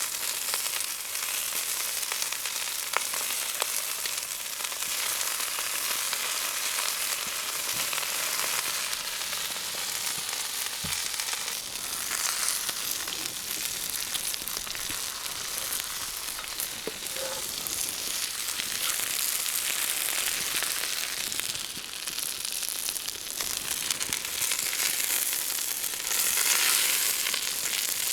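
Food frying in a pan over a campfire: a steady sizzle with small pops and crackles, getting a little louder near the end.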